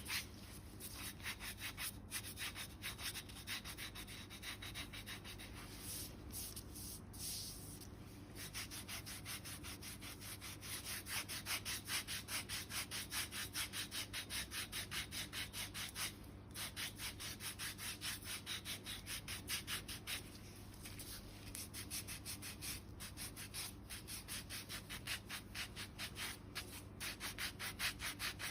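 Foot file rasping back and forth over the dry, dead skin of a foot in quick, even strokes, several a second, pausing briefly a few times.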